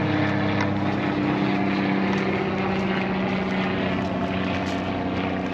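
Engine droning steadily with a low hum, its pitch sinking slightly as it passes.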